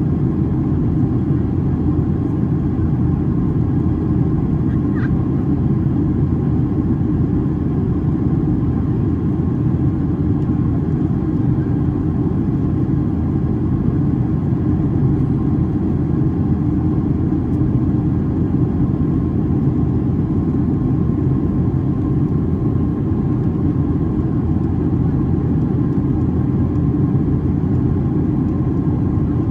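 Steady low cabin drone of a Boeing 737-800 airliner in flight: its two CFM56-7B turbofans and the airflow over the fuselage, heard from inside the passenger cabin.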